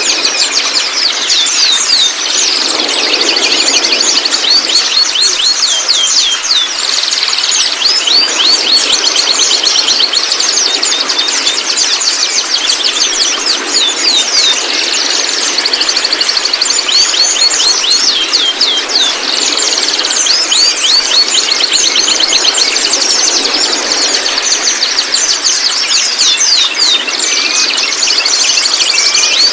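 White-rumped shama singing continuously in rapid, high chattering trills and quick sweeping notes.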